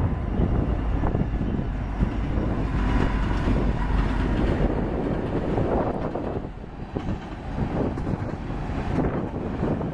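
Two diesel-electric freight locomotives, an EMD SD70ACe leading a GE AC44CW, pass with a deep, steady engine rumble. In the second half, tank cars roll past, their wheels giving scattered knocks on the rails.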